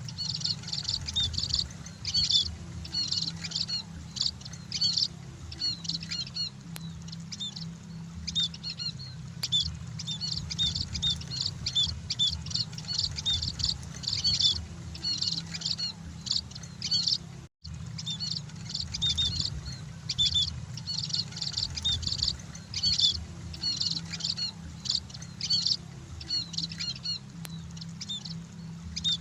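Emprit birds (munias) chirping continuously: many short, high, rapid chirps in clusters over a steady low hum. The sound cuts out for an instant about 17 seconds in.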